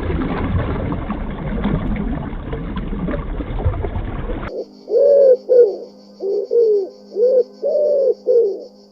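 A bird cooing in a run of about nine short notes, each rising and falling in pitch, preceded by an even noisy rush that cuts off suddenly about halfway through.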